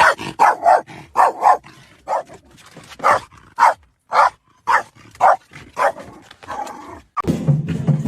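A dog barking repeatedly, about a dozen short barks at uneven intervals.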